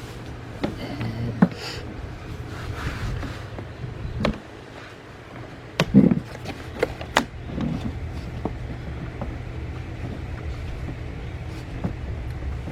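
Plastic cowl panel pieces being handled and fitted together: scattered sharp clicks and knocks, a cluster of them about six to seven and a half seconds in, over a steady low hum.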